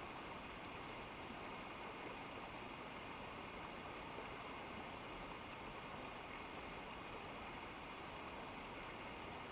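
Steady, faint rush of flowing mountain river water, unchanging throughout.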